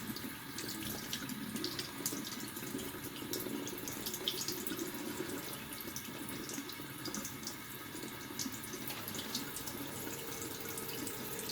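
Water running steadily from a tap into a sink, with small splashes and drips.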